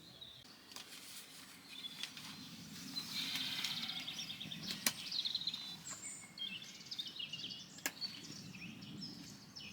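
Small birds chirping and trilling over a low outdoor ambient hiss, with two sharp clicks about five and eight seconds in.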